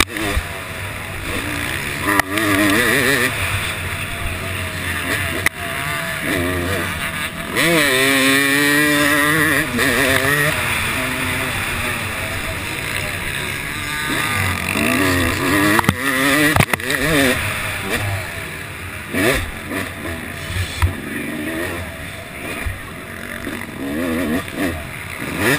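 Yamaha YZ250 two-stroke motocross engine revving hard, its pitch repeatedly climbing and dropping back as the bike accelerates and shifts, with a few sharp knocks in between.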